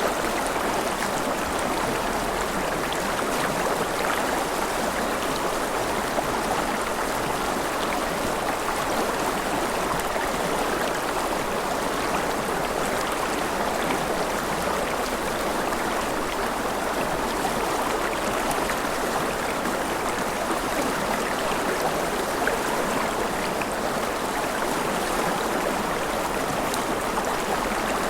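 Mountain river rushing steadily over rapids, an even, unbroken wash of water.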